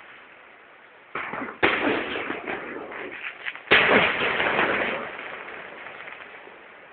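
Fireworks going off: three sudden bangs, about a second in, again half a second later, and the loudest near four seconds in. Each is followed by a crackling tail that dies away over a second or two.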